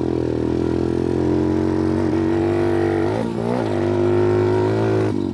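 Pit bike's single-cylinder engine running under throttle while being ridden, its note holding steady, then dipping briefly about three seconds in and climbing back up.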